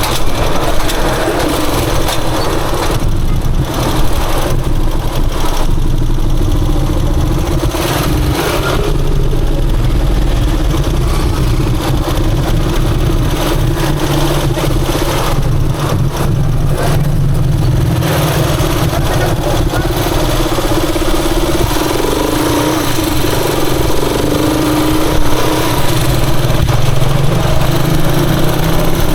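Rusi Chariot 175 motorcycle engine running steadily under way, with a noisy hiss over it. The engine pitch shifts a little in the later part.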